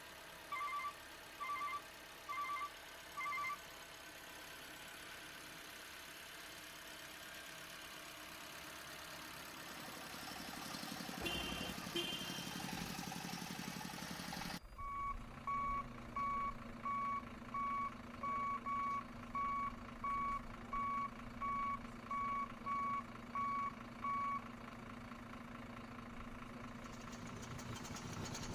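Remote-control truck's reversing beeper sounding a steady single-tone beep, about one and a half beeps a second. A few beeps come at the start. After an abrupt cut about halfway, a longer run plays over a steady low hum that continues after the beeping stops.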